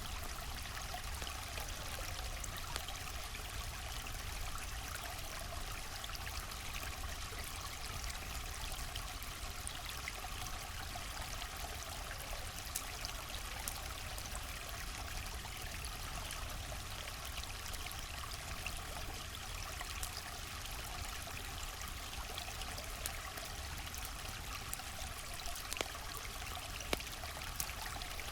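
River water flowing steadily, with a few faint sharp clicks scattered through it, mostly in the second half.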